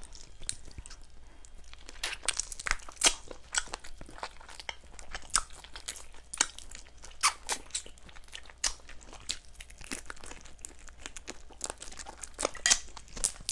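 A person chewing and biting chicken, with irregular crunches and wet mouth clicks.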